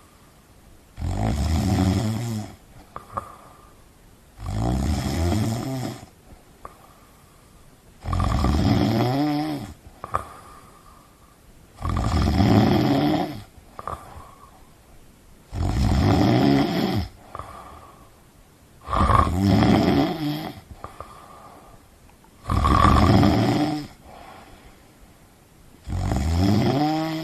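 Loud snoring: eight long snores, about one every three and a half seconds, each lasting about a second and a half, with a soft, faintly whistling breath between them.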